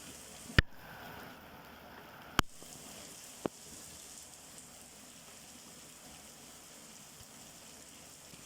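Steady rainfall hiss, broken by three sharp clicks: a loud one about half a second in, another near two and a half seconds, and a fainter one about a second later.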